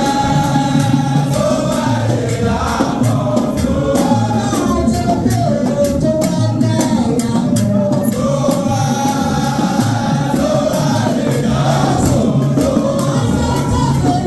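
A group of voices singing together in chorus over steady, rhythmic percussion.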